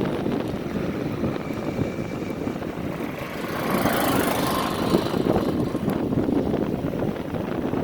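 Steady rumble of wind and rolling noise while riding a bike along a path, swelling into a louder rush from about three and a half to five seconds in.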